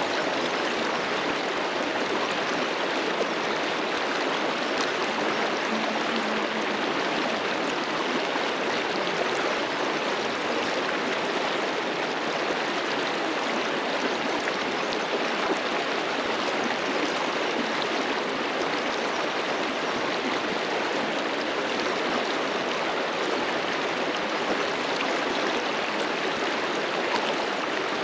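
River water rushing steadily over rocks, a continuous even rush with no let-up.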